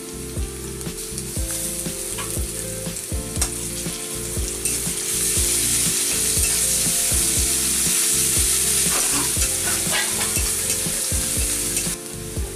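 Garlic and spice paste frying in oil in a steel pan, with a steady sizzle and a few clicks of stirring. The sizzle grows louder about five seconds in and drops off suddenly near the end, over soft background music with a steady low beat.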